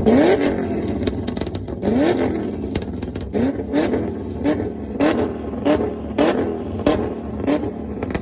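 Car engine revved hard in a two-step competition: a few rising revs, then short repeated blips about one and a half a second, with sharp cracks from the exhaust.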